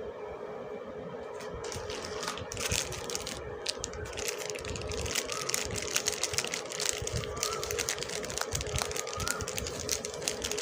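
Soap packaging crinkling and rustling as it is unwrapped, with dense irregular crackles starting about a second and a half in, over a steady low hum.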